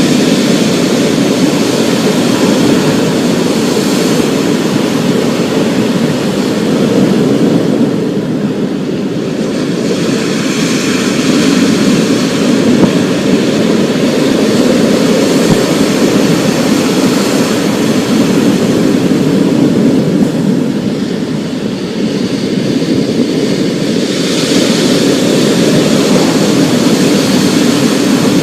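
Storm sound: a continuous roar of heavy rain with a low rumble that eases slightly twice, then swells back.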